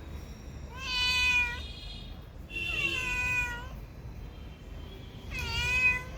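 Domestic cat meowing three times, each meow drawn out for about a second with a pause of a second or so between them.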